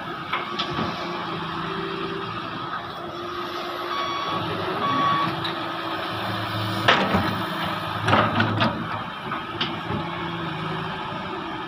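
Heavy diesel earthmoving machinery running steadily, with two short beeps of a backup alarm about four seconds in and several sharp clanks a few seconds later.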